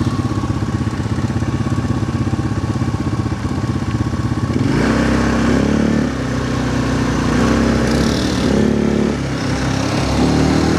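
Quad bike (ATV) engine running at a steady low idle, then about halfway through revving up under throttle, its pitch rising and falling several times as it pulls along the trail.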